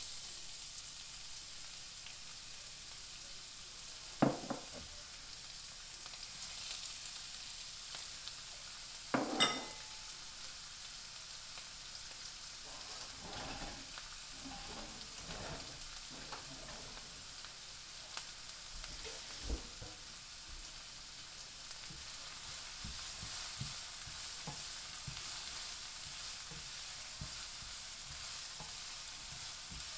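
Chopped onions and green peppers sizzling in olive oil in a frying pan, a steady hiss, stirred now and then with a spatula. The loudest sounds are two sharp knocks, about four and nine seconds in.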